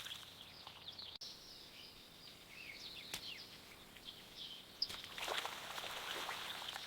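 Birds chirping with many short, high calls over a steady outdoor background hiss, with a brief stretch of louder rustling noise near the end.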